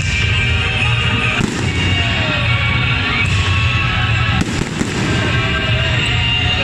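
Fireworks bursting, with sharp bangs about a second and a half in, again around three seconds, and a tight cluster a little past four seconds, over background music with a steady bass beat.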